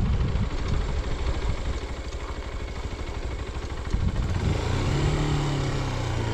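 Motorcycle engine running. About four seconds in a steady engine note comes up and then sinks slowly in pitch, as if the bike is easing off.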